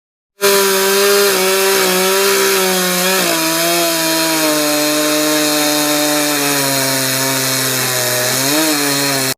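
Chainsaw running and cutting into wood. Its engine pitch sags steadily under load, with a brief rise near the end. It starts abruptly about half a second in.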